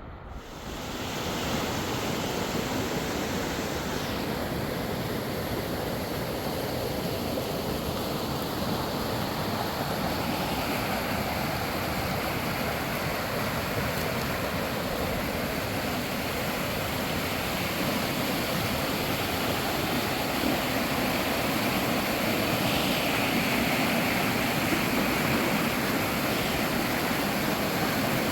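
Fast-flowing river water rushing steadily, fading in over the first second or so.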